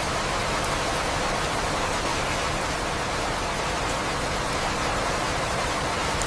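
Steady rain falling, an even hiss with a few faint drop ticks and no thunder.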